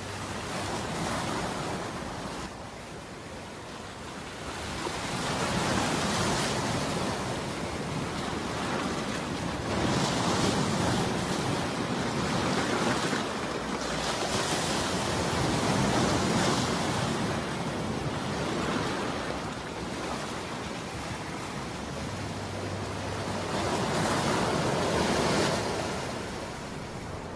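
Ocean waves breaking and washing in, the surf noise swelling and falling back in slow surges every few seconds.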